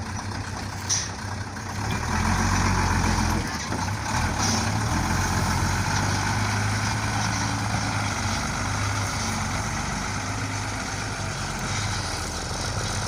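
Truck engine running steadily, getting louder about two seconds in and then holding.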